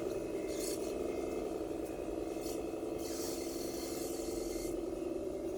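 1:14-scale RC MAN 8×4 dump truck running, its electric drive giving a steady whine. A scraping hiss joins in from about three seconds in until nearly five seconds.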